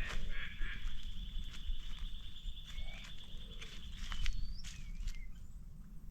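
Tropical forest ambience: a steady, high insect buzz that stops about four seconds in, with short bird chirps and gliding calls over a constant low rumble.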